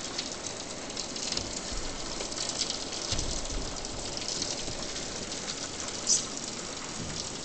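Steady rain falling and pattering on surfaces, with a brief low rumble about three seconds in.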